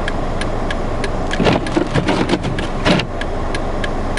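Inside a car stuck in snow drifts: the engine runs with a steady low rumble, and the flasher clicks about two and a half times a second. Between about one and a half and three seconds in there is a louder stretch of rustling noise.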